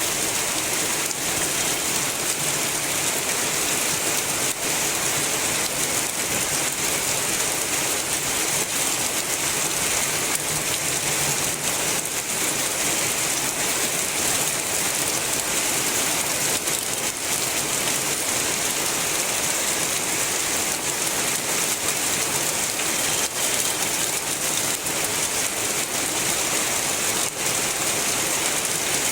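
Heavy rain falling steadily, a dense hiss with many sharp drop ticks scattered through it.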